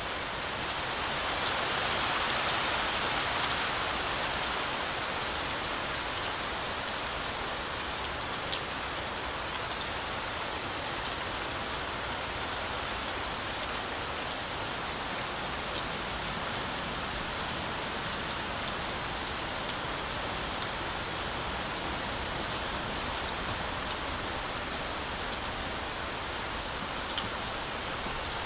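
Heavy rain falling steadily as a dense hiss, swelling louder for a few seconds near the start. A few single drops tick out sharply above it.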